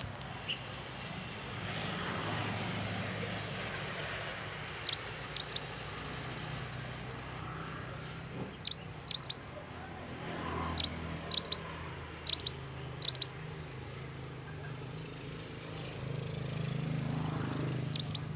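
Minivet (mantenan) giving short, high chirps in quick clusters of two to four notes, repeated every second or two. A steady low hum runs underneath.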